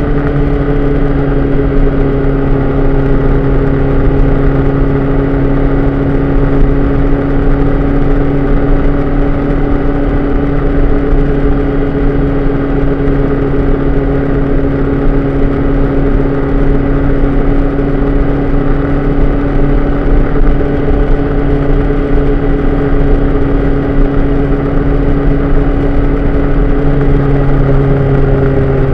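A vehicle's engine runs at a steady speed under wind and road noise, picked up by a camera mounted outside on the mirror arm. The engine note holds steady and eases slightly near the end.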